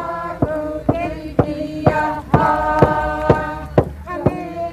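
A drum beaten steadily about twice a second under a voice chanting in long held notes: a traditional Alaska Native song.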